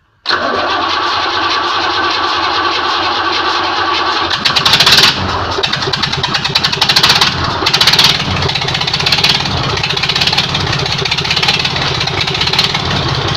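Freshly rebuilt YaMZ-236 V6 diesel engine on its first start after the overhaul: the starter cranks it for about four seconds, then it catches and runs, rising in loudness several times as it is revved.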